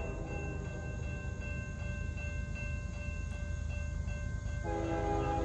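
CSX diesel freight locomotive horn sounding a multi-note chord. It breaks off just after the start and blows again near the end, over the steady low rumble of the approaching train.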